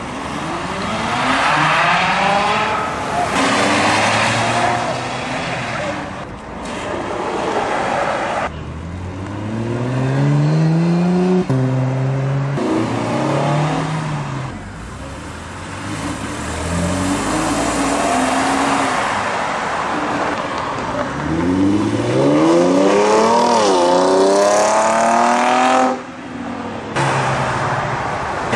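Several cars accelerating hard one after another, their engines revving up with rising pitch and dropping back at each upshift before climbing again. Abrupt breaks between the runs.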